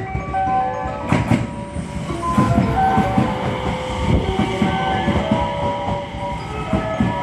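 Electric train on the JR Hanwa Line running along the platform, its wheels clacking irregularly over the rail joints, with short metallic squealing tones throughout; the noise rises about a second in.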